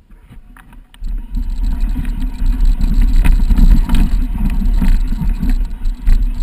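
Wind rumbling on the microphone of a camera on a moving mountain bike, with scattered knocks and rattles from the bike on the trail. It starts suddenly about a second in.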